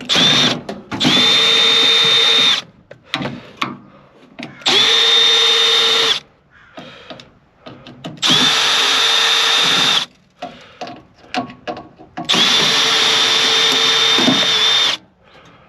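Power drill/driver backing out the screws that hold a microwave oven's transformer. It runs in four long bursts of about two seconds each, after a brief first spin. Its pitch rises as it spins up and drops as it stops, with small clicks and rattles of screws and metal between the runs.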